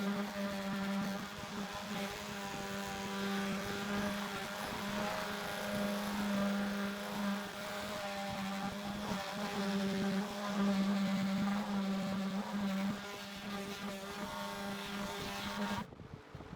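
A small power tool's electric motor running steadily with an even hum, stopping suddenly near the end.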